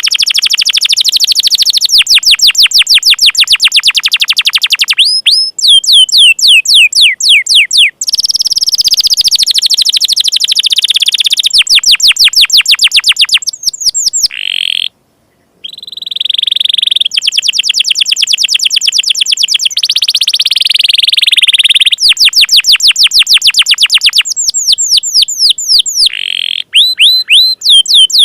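Domestic canary singing a long, loud song of rapid trills: fast runs of repeated falling notes that change speed from phrase to phrase, with a brief break about halfway. It is 'door' material canary song, used as tutoring song (masteran) for other canaries.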